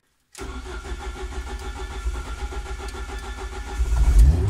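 Starter motor cranking a hot Ford Focus ST170 four-cylinder engine fitted with motorcycle individual throttle bodies, with the throttle part open. It turns over steadily from about half a second in, then gets louder with a low rumble near the end as the engine starts to fire, a slow hot start typical of an ITB setup mapped on throttle position only.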